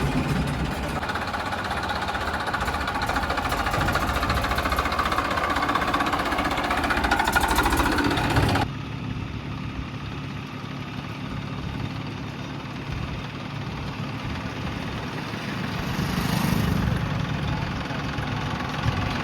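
Massey Ferguson 241 DI tractor's three-cylinder diesel engine running. About halfway through the sound drops suddenly to a quieter, steadier engine note, which swells briefly near the end.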